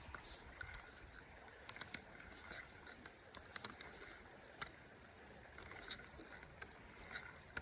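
Faint creek water running, with scattered small irregular clicks and taps.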